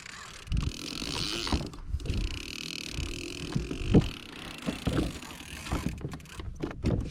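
Irregular knocks and thumps of handling on a fishing kayak, about one a second with the loudest about four seconds in, over wind and water noise, as two hooked fish are worked in.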